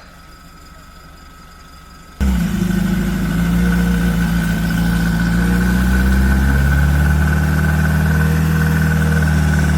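Off-road truck engine running steadily at fairly constant revs, starting abruptly about two seconds in.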